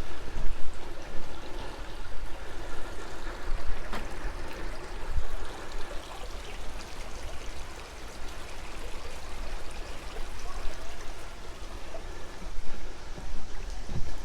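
A creek running and trickling steadily over its bed.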